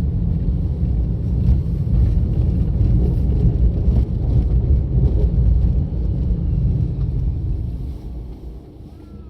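A car driving along a road: a steady low rumble of road and engine noise, which fades away near the end.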